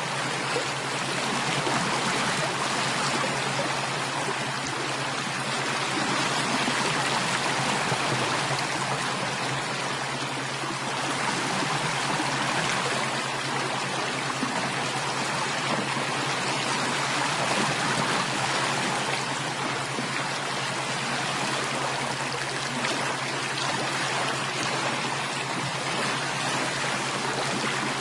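Water flowing steadily in a stream, an even rushing and trickling with no breaks or distinct splashes.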